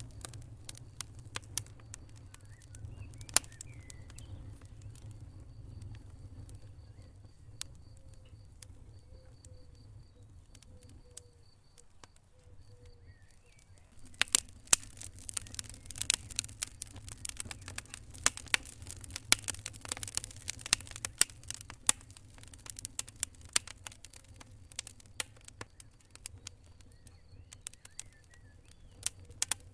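Wood fire crackling in a fireplace, with irregular sharp pops over a low steady rumble. The pops come much thicker from about halfway through.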